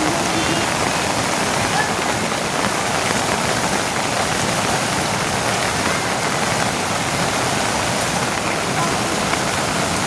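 Steady rushing of water: an even, continuous noise with no breaks or distinct drops.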